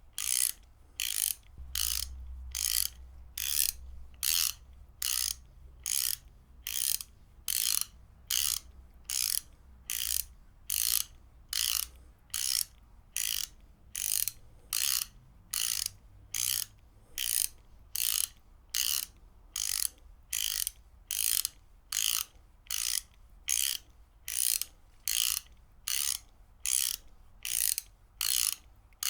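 Ratchet wrench being worked back and forth, its pawl clicking over the gear teeth in short bursts that repeat evenly, about three every two seconds.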